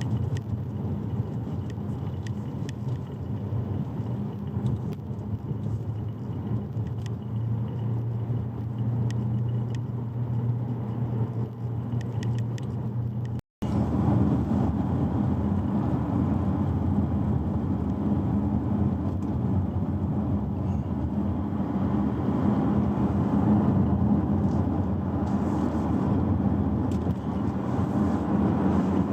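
Chery Omoda car on the move: a steady low drone of road and running noise. It cuts out for an instant about halfway through, then carries on slightly louder.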